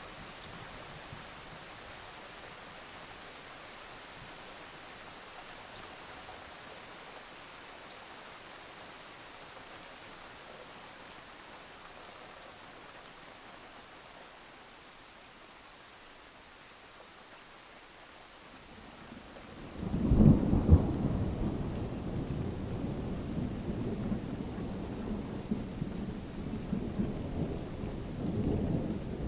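Steady rain hiss, then about two-thirds of the way in a loud thunderclap breaks in suddenly and rolls on as a long, low rumble.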